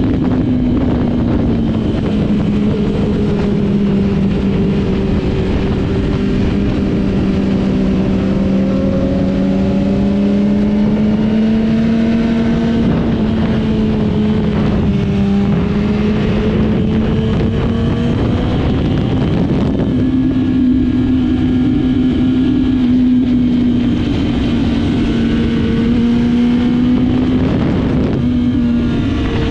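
A motorcycle engine running continuously at fairly steady revs, its pitch shifting slightly a few times, over a steady rushing noise.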